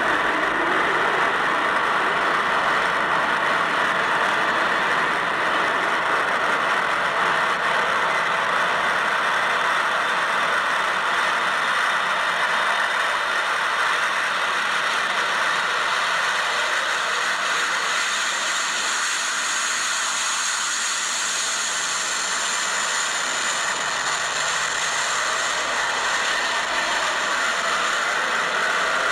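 Hawker Siddeley Trident jet engine sound, steady and unbroken: a rushing hiss with several high whining tones above it, the highest whine growing stronger a little past halfway.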